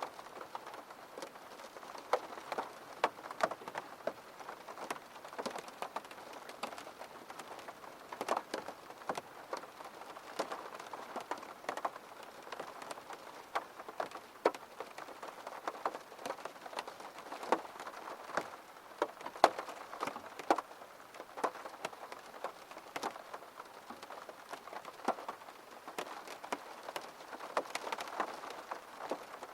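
Gentle rain falling on a surface, a steady patter with many distinct individual drops hitting close by at irregular moments.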